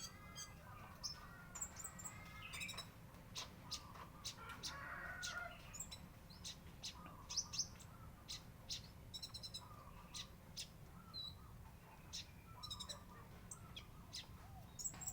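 Kolibri ninja sunbird calling: a scatter of short, sharp, high-pitched chips with a few quick trills, irregularly spaced throughout.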